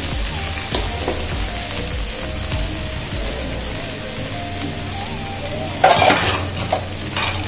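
Large-cut onions and green chillies sizzling steadily as they fry in hot ghee with cumin seeds in a wok. A short, louder clatter of a utensil comes about six seconds in, with a smaller one near the end.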